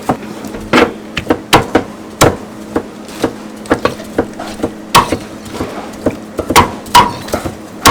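Cleaver chopping meat on a wooden chopping board: a run of sharp, uneven chops, about two a second.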